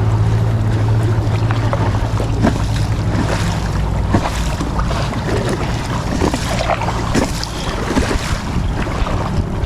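Kayak paddle strokes splashing and water slapping around the hull, with wind buffeting the microphone. A low steady hum fades out about four seconds in.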